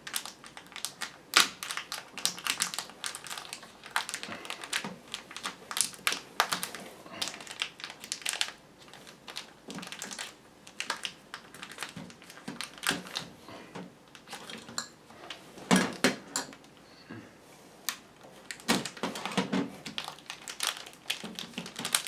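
Retail CPU packaging being handled and opened by hand: irregular clicks, taps and crinkles of cardboard and plastic, with a louder knock near the middle.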